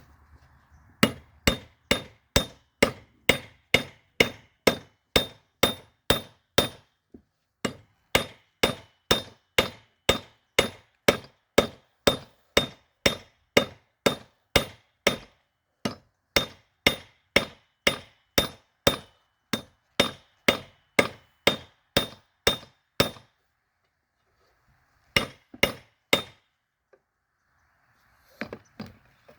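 Hand hammer striking a steel railroad spike on an anvil while forging it, about three ringing blows a second. The blows come in runs, with brief breaks about a third and halfway through, a longer pause late on, then a few more blows.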